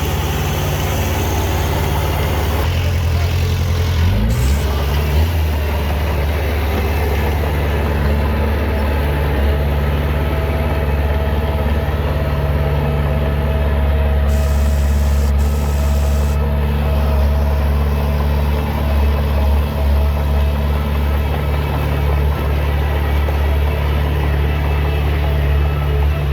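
Heavy diesel engine of earthmoving machinery running steadily, with a brief rise in engine pitch about four seconds in.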